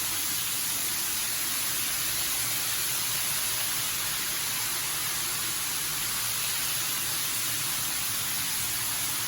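Shower running, its water spraying in a steady, unbroken hiss.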